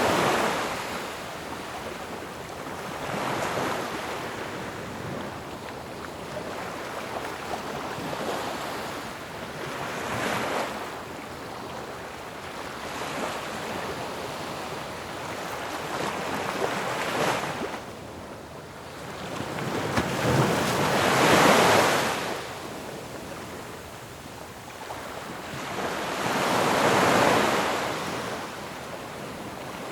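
Ocean waves crashing on a shore, a steady wash of surf with surges every few seconds; the two biggest waves break about two-thirds of the way in and again near the end.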